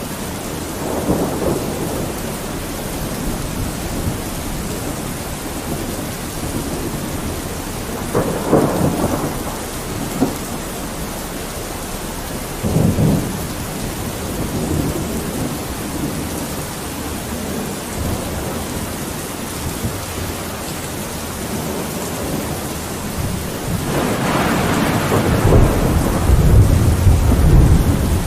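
Steady rain falling, with rolls of thunder: short rumbles about a second, eight seconds and thirteen seconds in, and a longer, louder low rumble building near the end.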